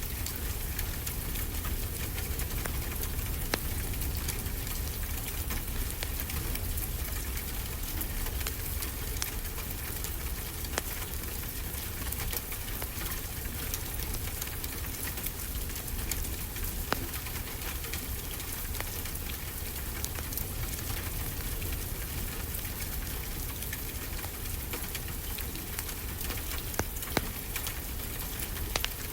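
Wood fire crackling in a fireplace, with frequent sharp pops and snaps, over a steady low rush of ocean waves.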